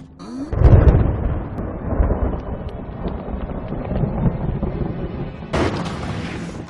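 A loud, deep rolling rumble like thunder, peaking about a second in, with a hissing burst near the end.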